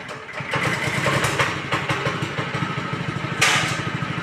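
Power weeder's Honda engine running with a rapid, even firing beat that gets louder about half a second in. A short noisy burst stands out near the end.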